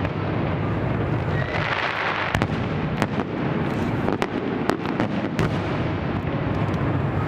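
Fireworks display with aerial shells bursting: a continuous rumble of explosions, a spell of crackling about two seconds in, and several sharp bangs in the middle of the stretch.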